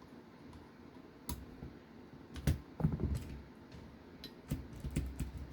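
Scattered light clicks and knocks of small RC car parts and hand tools being handled on a workbench, loudest about two and a half to three seconds in.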